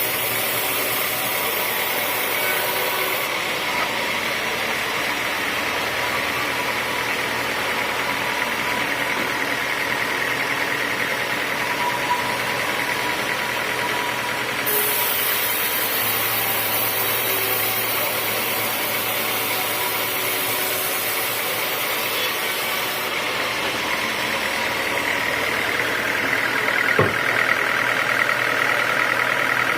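Sawmill machinery running steadily, with a sharp click near the end and a higher whine rising in over the last few seconds.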